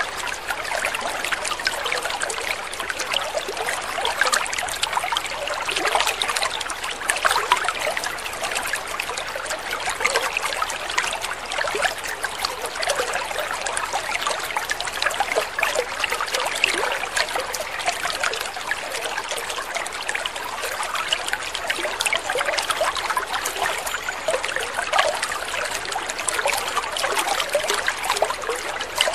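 Water trickling steadily, with a dense patter of small drips and splashes.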